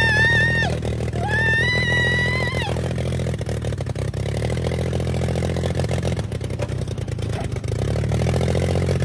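Dirt bike engine running steadily under way at an even speed. Two long, high-pitched tones, each held about a second, sound over it in the first three seconds.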